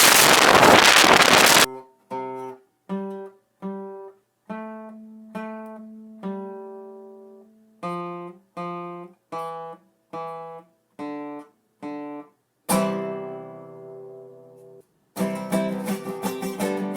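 Background music on acoustic guitar: single plucked notes one after another, a ringing strummed chord about thirteen seconds in, then fast, busy strumming near the end. It opens with a loud burst of hiss lasting about two seconds.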